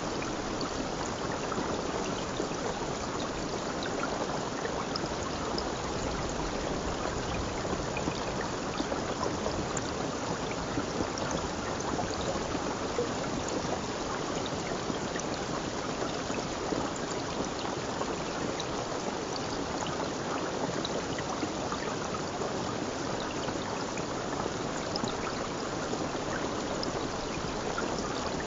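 A stream of running water, a steady rushing and babbling with no breaks.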